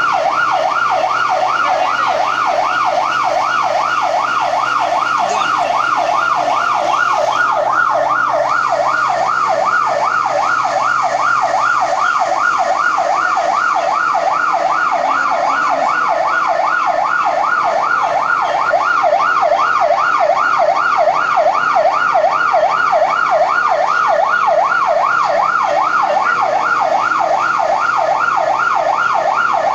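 Electronic siren in a fast yelp, its pitch sweeping rapidly up and down without a break.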